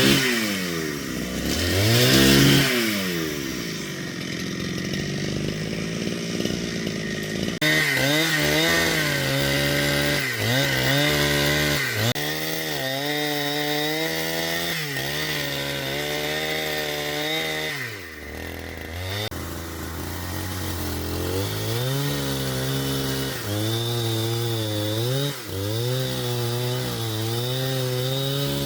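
Two-stroke chainsaw running, its engine pitch rising and falling again and again as it revs up and drops under load while cutting wood.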